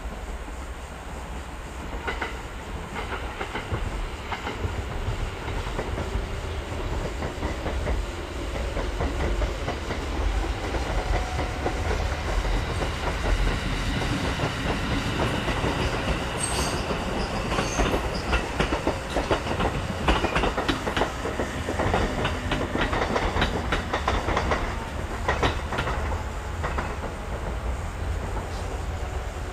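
Kintetsu electric train approaching over a concrete viaduct, its rumble growing louder, with wheels clacking over rail joints through the second half.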